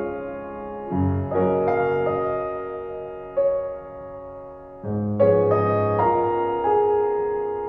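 Slow, quiet piano music: chords struck every second or so and left to ring and fade, with deep bass notes joining about a second in and again near five seconds in.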